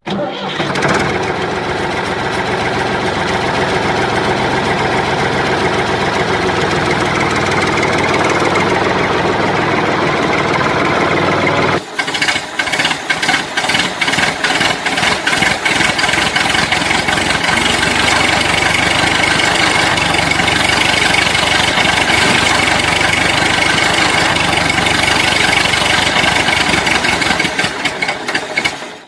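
A small motor running steadily, breaking off briefly about twelve seconds in, then running on with a fast, choppy pulsing.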